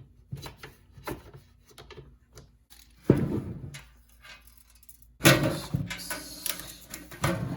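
Handling of a metal ammo can: light clicks and knocks, then louder clanks and scrapes about three seconds in, again for about a second from five seconds in, and once more near the end.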